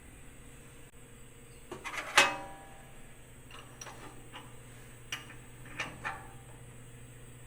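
Light metal clicks and taps with one sharp, ringing metal strike about two seconds in, then a few softer knocks: the loosened fourth-axis rotary unit being tapped over on the mill table to bring it into alignment. A low steady hum runs underneath.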